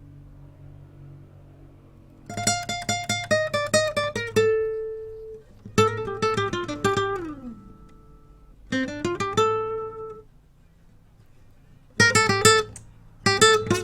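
Acoustic guitar music: phrases of rapid plucked notes, starting about two seconds in, with short pauses between phrases.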